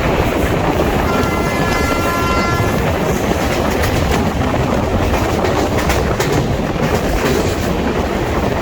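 Express train passing at speed, about 130 km/h, with a loud steady roar and rumble and the wheels clattering over rail joints. The locomotive's multi-tone horn sounds from about a second in, for nearly two seconds.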